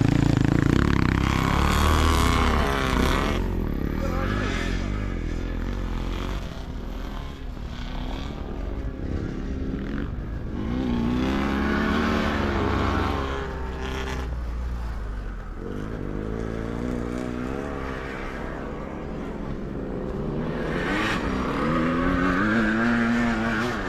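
Sidecar motocross motorcycles racing past, their engines revving up and down in pitch. The sound swells as machines pass, about a dozen seconds in and again near the end.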